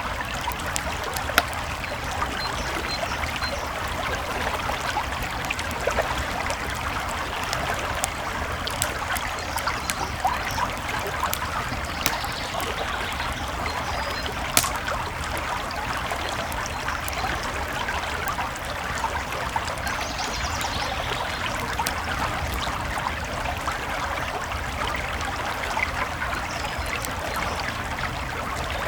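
A creek flowing steadily, with campfire crackles and scattered sharp pops over it; the loudest pop comes about halfway through.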